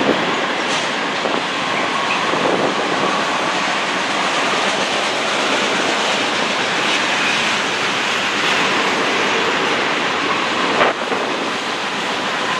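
Freight train cars (tank cars, then boxcars) rolling past with a steady rumble of wheels on rail, a sharp knock at the start and a louder one near the end.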